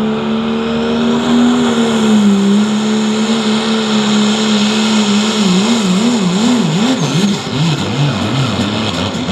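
Dodge pickup's turbo-diesel engine pulling under full throttle. It holds a steady high note, then from about five and a half seconds in the revs surge rapidly up and down in a wobbling pattern, a shaky run down the track.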